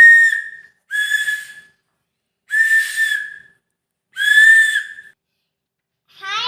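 Four blasts on a whistle, each about a second long with short silent gaps between, every blast a steady shrill tone with a breathy hiss.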